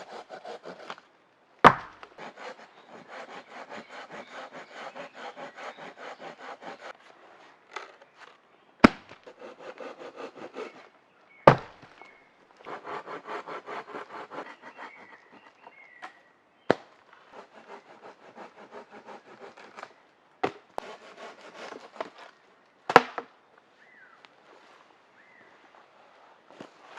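Hand saw cutting through a wooden branch in runs of quick back-and-forth strokes, broken by several sharp knocks or cracks of wood.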